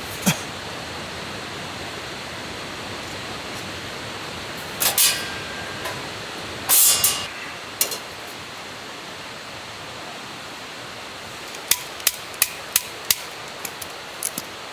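A few sharp knocks and two short rustling scrapes, then a run of five sharp strikes about three a second near the end, like hammering, over a steady hiss.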